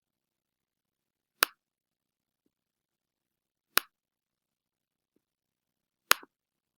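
Three sharp single clicks from a ceiling fan, evenly spaced about two and a half seconds apart, the last followed by a quick second tick.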